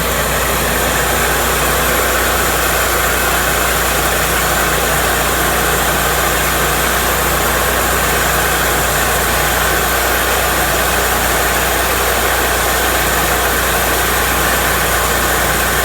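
Cook's MP-32 portable band sawmill's engine running steadily, with no change in pitch or level.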